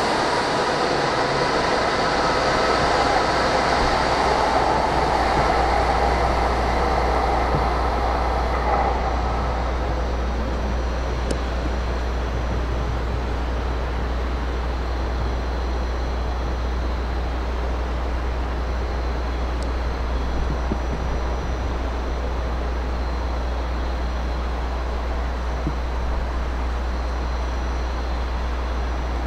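N700S shinkansen train pulling out of the station, its motors whining with several steady tones over the running noise for about the first nine seconds. After that comes a steadier, quieter rumble with a low hum as the train runs away down the line.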